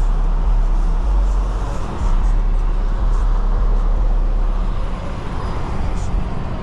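Steady in-cabin driving noise of a BMW 540i sedan on a rain-wet road: a deep rumble of engine and road with tyre hiss, easing slightly about five seconds in.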